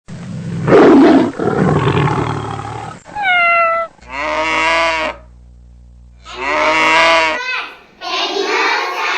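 Animal calls as sound effects: a loud animal roar for about three seconds, then a short call falling in pitch and two longer pitched calls. Children's voices start near the end.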